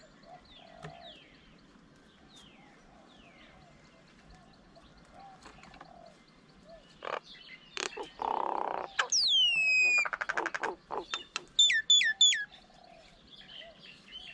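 Wild birds calling, faint at first, then loud from about halfway: harsh chattering bursts, sharp whistles that slide steeply down, a fast rattling run of clicks and a quick series of short falling notes. Faint low croaking notes sit underneath throughout.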